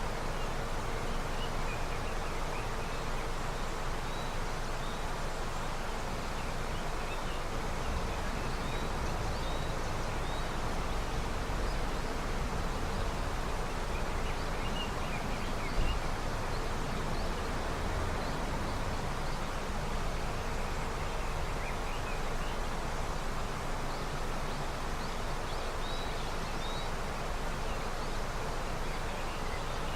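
River running with early-spring snowmelt: a steady rushing of water, with faint short high chirps now and then and one brief low thump about halfway through.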